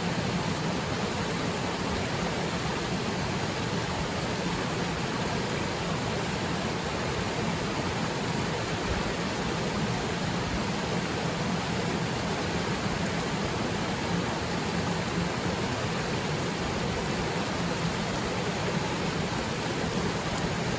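Waterfall: a steady rush of water falling into its pool, even and unbroken.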